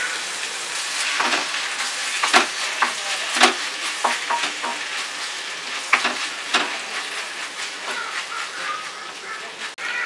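Tomatoes and onions sizzling in hot sesame oil in an iron kadai, stirred with a wooden spatula that scrapes and knocks against the pan several times.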